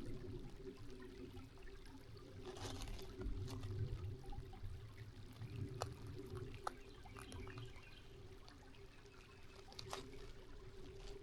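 Water of a small forest creek trickling and pouring over stones, with a few sharp clicks partway through.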